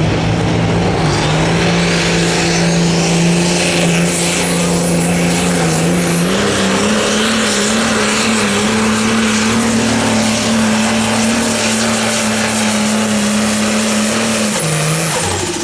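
Turbocharged diesel engine of a light pro stock pulling tractor running flat out through a pull, with a high turbo whine that rises over the first few seconds and holds. The engine note steps up in pitch about six seconds in, and near the end the engine is throttled back and the whine falls away.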